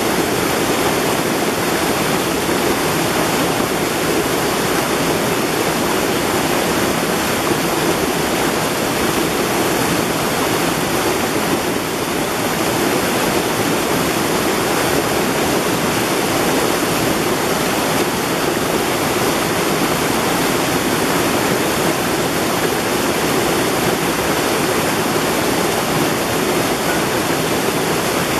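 Mountain valley stream rushing over rocks: a steady, unbroken rush of water.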